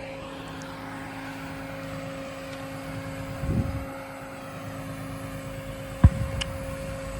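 Scania crane truck running steadily: a constant whine over a low hum. There is a dull thump about three and a half seconds in and a single sharp knock near the end.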